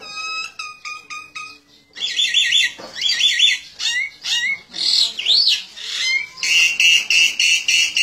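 A small wild bird giving rapid series of harsh, high-pitched chattering calls at a rooster it is squaring off with, agitated calls of a bird in a confrontation. The calls come in fast bursts about two seconds in and again near the end, with a few swooping notes in between.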